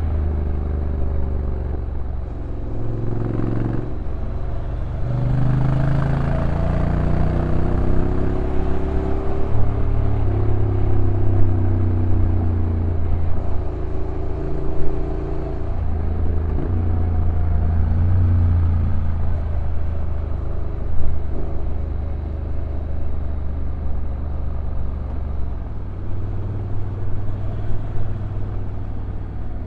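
Honda NC750X's stock parallel-twin engine running on a downhill ride, the rush of air and road around it. The engine note rises and falls, with several abrupt steps in pitch as the DCT gearbox changes gear.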